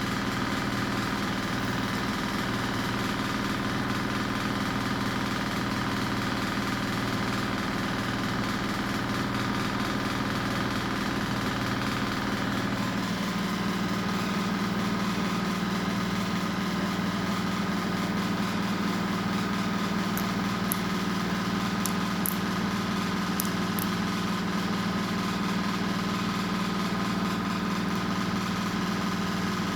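Washing machine running with a steady motor hum made of several tones, which shifts to a different pitch about halfway through.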